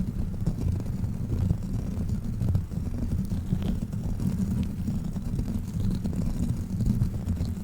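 Sticky rubbery crawler toy handled against the microphone: a dense, muffled low rumble with faint scattered sticky ticks.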